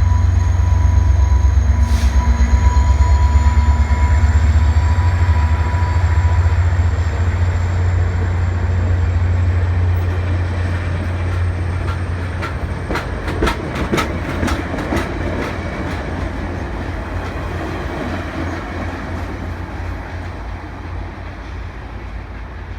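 Via Rail diesel-hauled passenger train rolling past. A heavy low rumble from the locomotive is loudest at first and then eases. Midway the wheels clack in quick clusters over rail joints, and the sound fades away toward the end.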